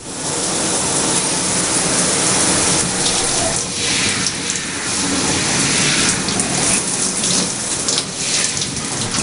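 Tap water running steadily, the rinse water used to wash shampoo out of hair.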